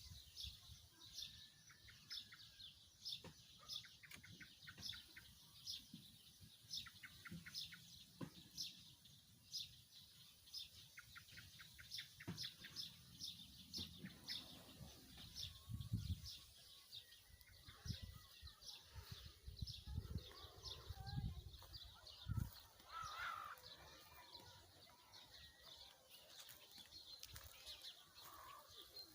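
Faint outdoor birdsong: a short high chirp repeated about twice a second, with low rumbles and thumps in the middle of the stretch.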